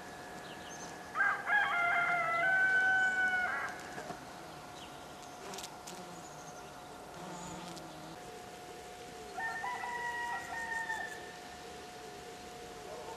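A bird calls twice, each a long call of a couple of seconds made of held notes, the first longer and louder than the second, over a faint steady hum.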